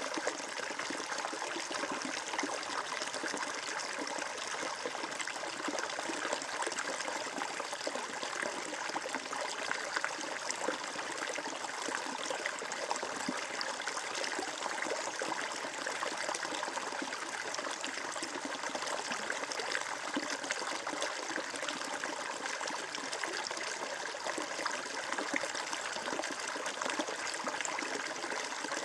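Water flowing and trickling steadily, a constant even rush with fine splashing detail.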